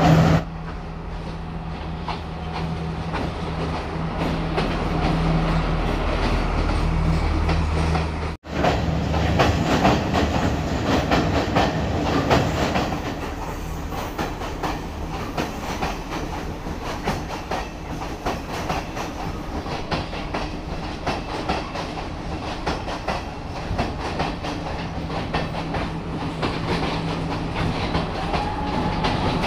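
Diesel passenger train running past close below, its wheels clattering over the rails with a steady low engine hum. The sound cuts out for an instant about eight seconds in.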